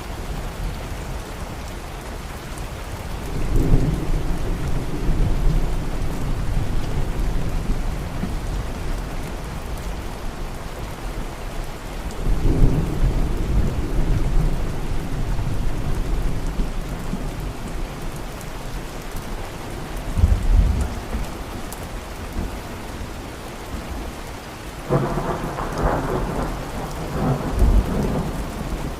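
Steady rain falling, with rolls of thunder rumbling four times: a few seconds in, near the middle, about two-thirds through, and a longer, fuller roll near the end.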